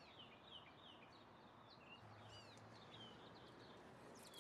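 Near silence, with faint birds chirping repeatedly in the background: many short, quick falling chirps.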